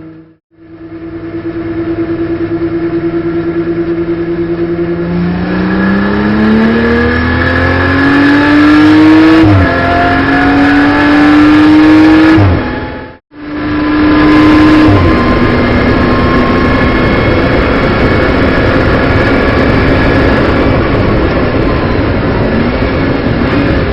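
Onboard sound of a BMW M240i Racing Cup's turbocharged straight-six at race pace. It holds a steady note, then climbs through the revs, with an upshift about ten seconds in and another climb. The sound cuts out briefly twice, then the engine runs on at steady high revs under heavy road and spray noise.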